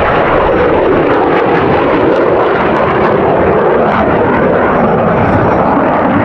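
Blue Angels jet aircraft flying overhead, a loud, steady roar of jet engines.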